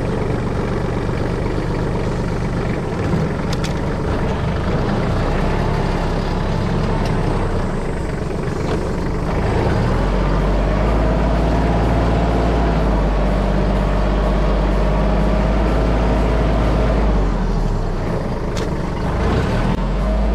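Kubota KT215 tractor's diesel engine running as the tractor is driven on a test run to check its heavy steering. About halfway through the engine note changes, then holds as a steady low drone with a higher whine above it.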